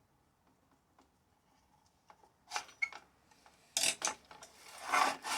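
Small metal parts and tools being handled: faint ticks, then a few sharp clinks about two and a half seconds in, followed by louder scraping and rubbing toward the end.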